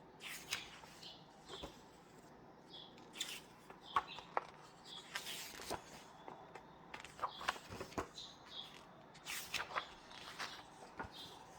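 Paper pages of a book being handled and turned: light taps and crinkles, with a longer rustling swish of a page turning about halfway through.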